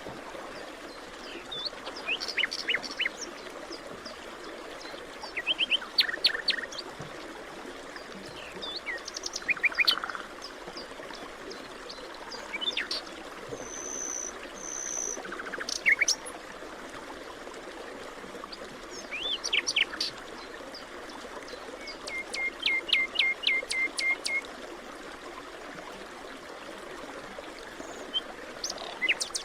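Forest birds singing and calling in short bouts every few seconds: quick chirps, fast trills of repeated notes and a pair of high whistled notes, over a steady background rush like running water.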